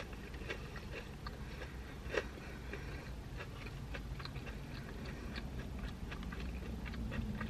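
Close-up mouth sounds of chewing crispy fried food: small irregular wet clicks and crunches, the loudest about two seconds in.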